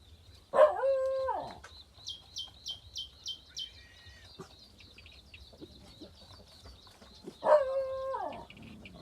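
A cat meowing twice, two long drawn-out meows about seven seconds apart, each rising, holding and falling in pitch. Between them a bird chirps quickly, about three high chirps a second.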